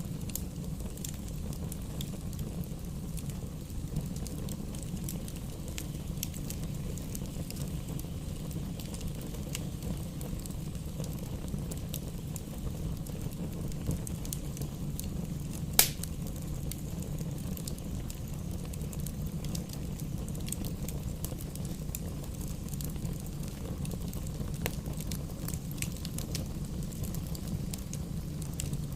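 Campfire burning: a steady low rush of flames with scattered crackles and pops, and one loud sharp pop about halfway through.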